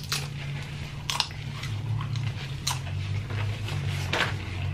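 Close-up crunching of a nacho tortilla chip being bitten and chewed: four sharp crunches, each a second or more apart.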